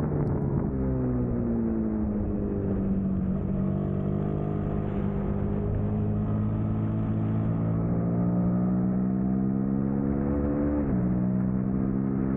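Suzuki SV650's 90-degree V-twin engine running hard under race throttle. Its pitch dips in the first couple of seconds, climbs slowly, then drops sharply near the end, typical of an upshift.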